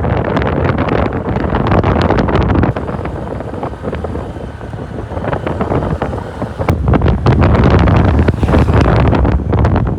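Wind buffeting the microphone, a loud rough rumble that eases off for a few seconds in the middle and picks up again after.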